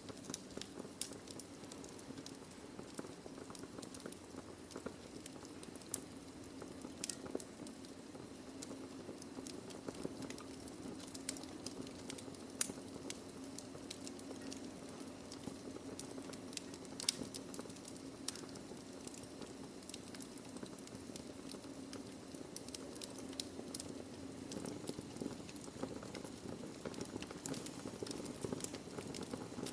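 Wood fire burning in a fireplace, crackling with frequent irregular sharp pops of burning logs over a steady low rumble; two pops stand out as loudest, about halfway through and a little after.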